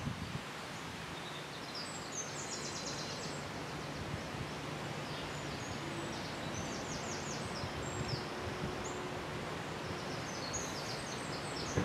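Steady outdoor background hiss, with a small songbird singing short, high, rapid trills three times.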